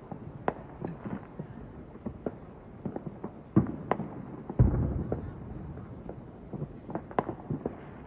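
Fireworks going off: scattered sharp pops and bangs throughout, with a deep boom about halfway through that rumbles on for about a second.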